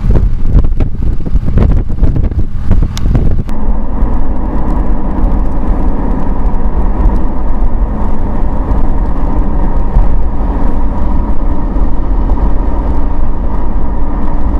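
Wind buffeting the microphone in gusts, then about three and a half seconds in it gives way abruptly to the steady road and engine noise of a car driving.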